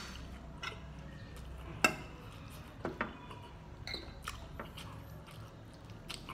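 Eating sounds: chewing with wet mouth clicks and light clinks of a metal spoon on a dish, scattered and irregular, the sharpest clink about two seconds in.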